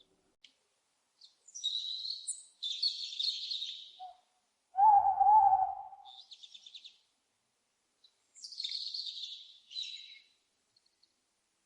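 Owl calls: harsh, hissing high-pitched screeches, with one loud, lower, wavering hoot-like call about five seconds in between them.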